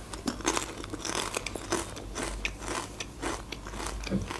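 Close-miked chewing of crunchy potato chips: a steady run of small, crisp crunches.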